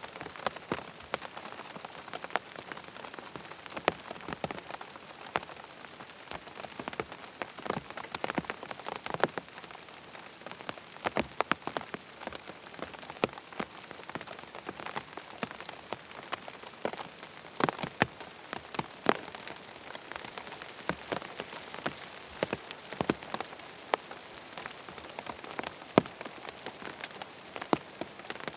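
Steady rain falling, an even hiss with many irregular sharp drip-like ticks scattered through it.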